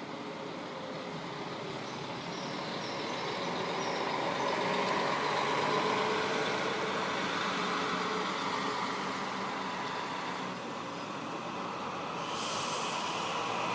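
Diesel coach engine running, growing louder toward the middle and easing a little before a sudden steady hiss starts about twelve seconds in.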